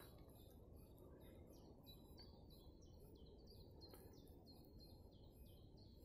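Faint songbird singing: a steady run of short high notes, each sliding down in pitch, about three a second, over near silence.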